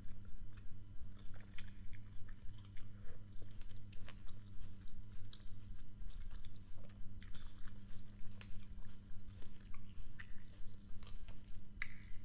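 Close-miked chewing of crisp green grapes: wet crunching and small crackles, one after another, throughout.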